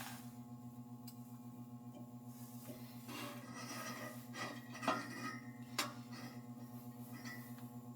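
A steady low hum, with a few light clinks in the middle.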